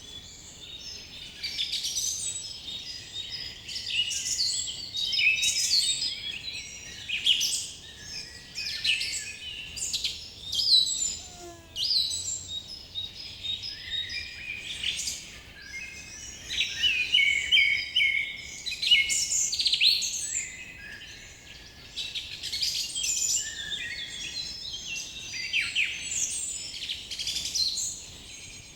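Several songbirds singing and chirping together in a forest dawn-chorus style, many short overlapping chirps and trills throughout.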